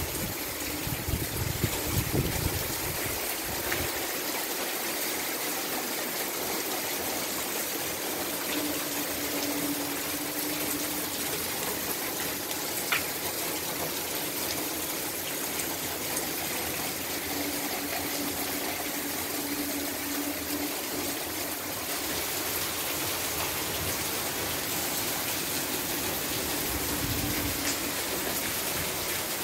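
Steady rain falling, an even hiss of water with no break, with some low rumbles in the first few seconds.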